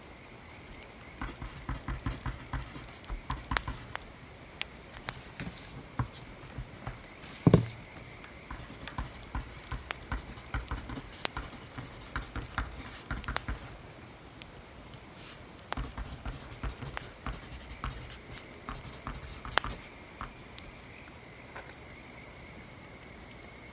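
A pen or pencil writing on paper in spells of quick scratches and taps, with pauses between. One louder knock on the desk comes about seven and a half seconds in.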